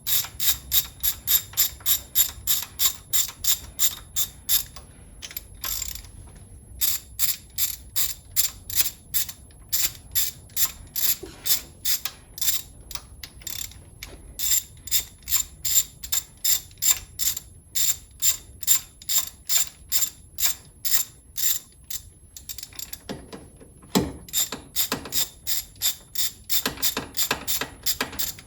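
Hand ratchet clicking in quick, evenly spaced runs of about three clicks a second, with a couple of short pauses, as the already-loosened cylinder head bolts of a Ford 3.8 L V6 are backed out.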